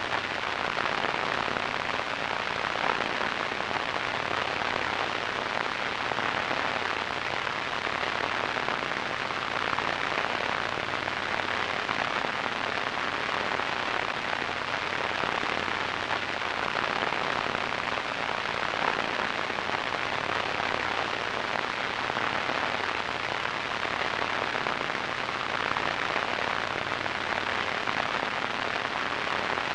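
Radio static: a steady hiss with a fine crackle running through it, strongest in the middle and upper-middle range.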